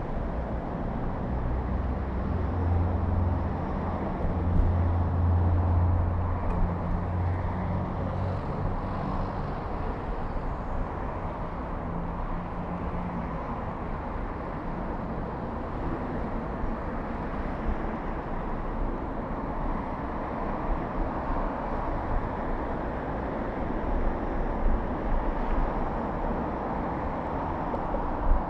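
Urban street ambience heard from a moving bicycle: a steady rush of traffic and rolling noise. A motor vehicle's engine hums low and steady from about two seconds in, loudest until about nine seconds in, then fades into the general traffic noise.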